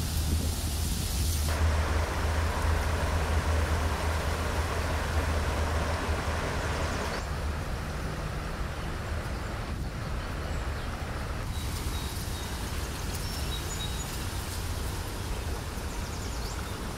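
Rushing water of a fast mountain creek: a steady noise over a low rumble, changing abruptly in tone and level a few times.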